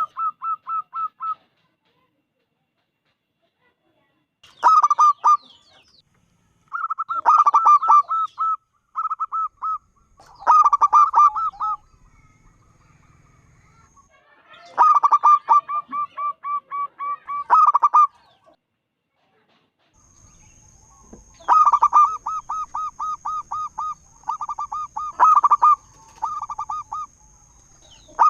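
Zebra dove (perkutut) cooing in repeated phrases of quick, rolling notes, with pauses of a second or more between phrases. The longer phrases come about 15 s in and again about 21 s in.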